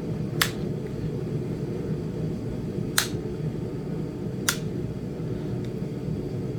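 Three sharp clicks, a second and a half to two and a half seconds apart, as flakes snap off a small Flint Ridge chert point being knapped, over a steady low hum.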